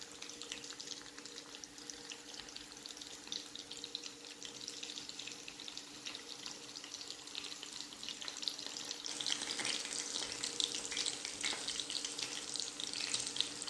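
Chicken wings and fries sizzling and crackling in hot oil, the crackle growing louder about nine seconds in, over a faint steady hum.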